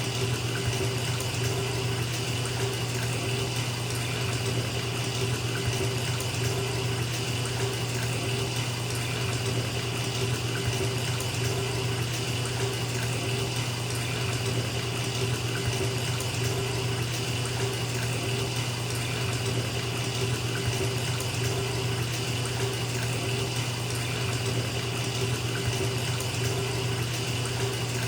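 Bathtub tap running steadily, the water stream splashing into a filling tub with an even rushing sound.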